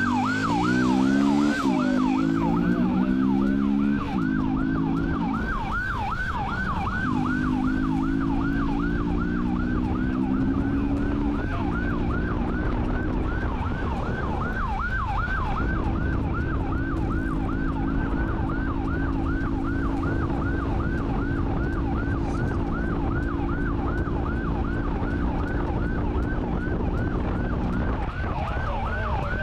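Police motorcycle siren sounding a fast, repeating yelp over a motorcycle engine. The engine climbs in pitch as it accelerates, twice in the first half, then holds a steady speed.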